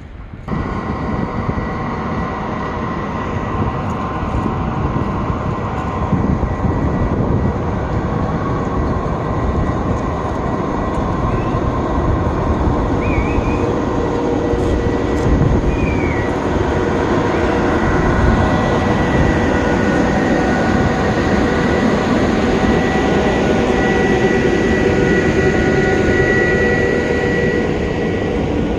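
A train running along the tracks: a loud, steady rumble that comes up suddenly, with several steady whining tones above it that grow stronger in the second half.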